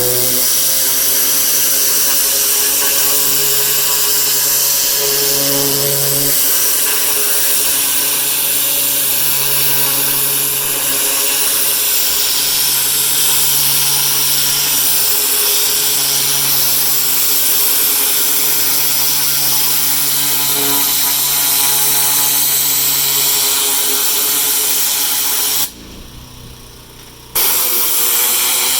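Pressure washer running and spraying, a loud steady hiss of the water jet over a machine hum. Near the end the spray cuts out for about a second and a half, then starts again.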